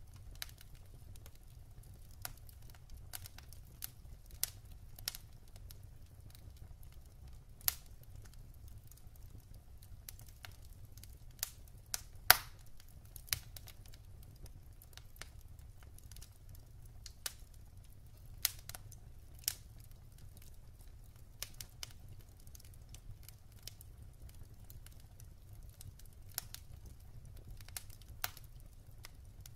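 Wood fire crackling in a fireplace: irregular sharp pops and snaps from the burning logs, the loudest about twelve seconds in, over a low steady rumble.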